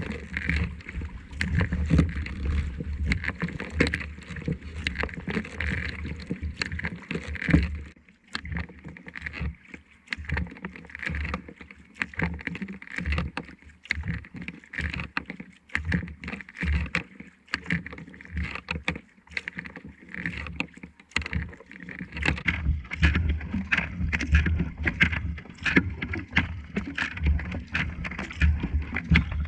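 Kayak paddling on a lake: the paddle blades dipping and splashing with irregular small knocks and drips, over a low rumble that fades out for a stretch in the middle and returns near the end.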